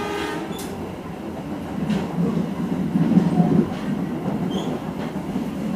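Passenger train coach of the KA Lokal Merak rolling along the track: a steady low rumble that swells about two seconds in and eases off again, with a few faint wheel clicks.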